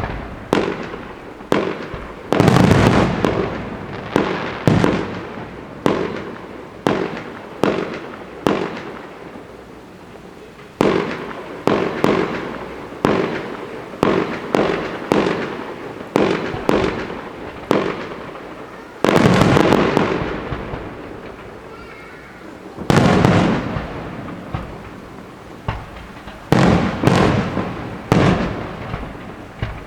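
Fireworks going off in quick succession: sharp bangs every second or so, each trailing into an echoing rumble, with a denser, longer barrage about two-thirds of the way through.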